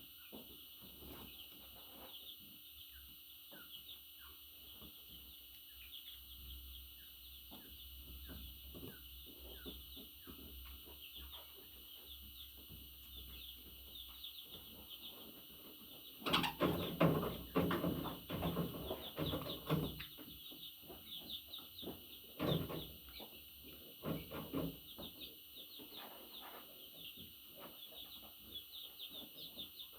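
Budgerigar chatter: a steady stream of quick, high chirps and warbles. About halfway through it grows louder and harsher for a few seconds, then comes back in shorter bursts.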